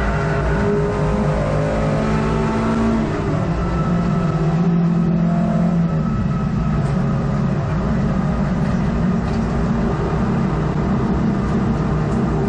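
Hot hatch race car's engine heard from inside the cabin, running continuously with its note shifting in pitch over the first few seconds, then holding steadier.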